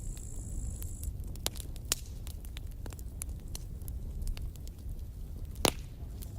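Campfire crackling: scattered snaps and pops over a low steady rumble, with one loud pop near the end.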